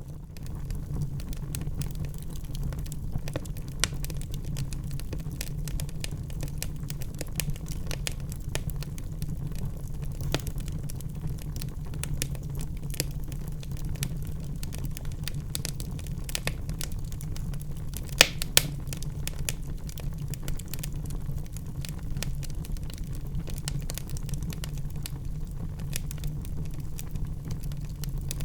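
Wood fire burning steadily in a fireplace: a low rumble of the flames with constant small crackles and snaps, and two louder pops about two-thirds of the way through.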